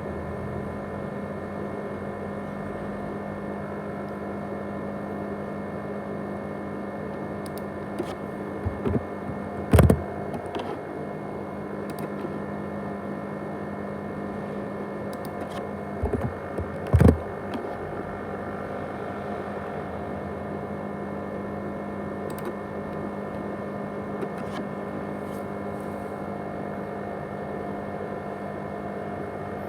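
500 GB hard disk drive running with a steady, many-toned whirring hum, the noise likened to a jet engine. Two brief clusters of loud knocks come about ten seconds in and again about seven seconds later.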